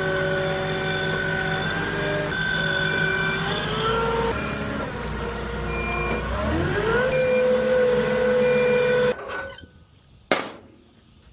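A truck's engine runs steadily in pitch, then climbs as it revs up about seven seconds in. It cuts off abruptly about nine seconds in, and a single sharp knock follows about a second later.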